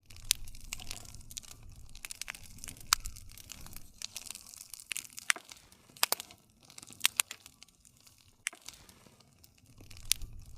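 Wood campfire crackling, with irregular sharp pops and snaps over a low rumble of burning.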